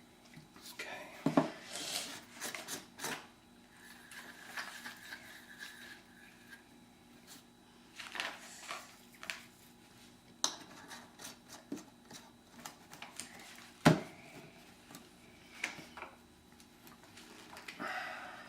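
PVC drain pipe and coupling being handled and pushed together: scattered clicks and scrapes of plastic, with a few sharp knocks and a brief faint squeal about four seconds in.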